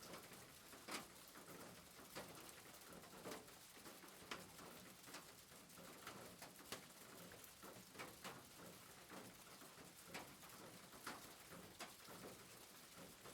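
Faint soft rain: a steady light hiss with scattered drop ticks about once a second.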